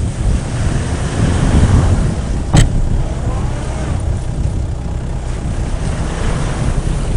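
Off-road vehicle engine running hard, with the rumble of the vehicle straining in mud. A single sharp knock comes about two and a half seconds in.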